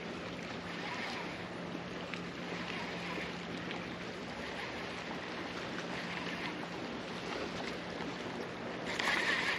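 Boat motor running with a steady low hum, under a haze of water and wind noise.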